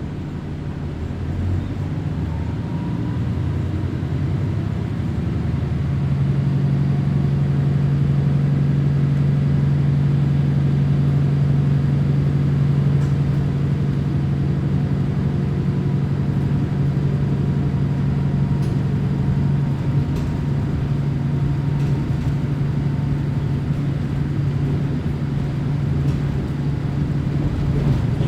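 Diesel railcar's engine and running noise heard from inside the car. The engine note builds over the first few seconds as it takes power, then runs steadily.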